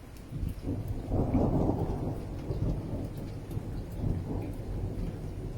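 Low rumble of a severe storm, swelling about a second in and then easing to a steady lower rumble.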